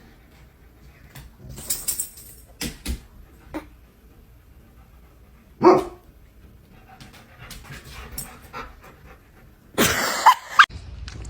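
A dog panting, with a few short barks; the loudest comes about six seconds in and another pair near the end.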